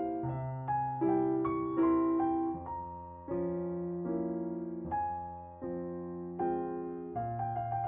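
Slow, gentle piano music: soft sustained chords that change about once a second, each struck and then fading.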